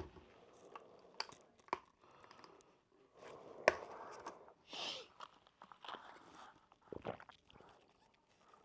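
Quiet mouth sounds of eating and drinking, with a few scattered sharp clicks, the loudest about three and a half seconds in.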